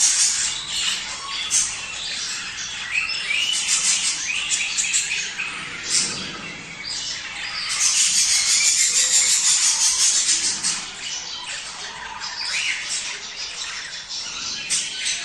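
A flock of budgerigars chattering and warbling, with many quick overlapping chirps and squawks. The chatter is loudest at the start and again about halfway through.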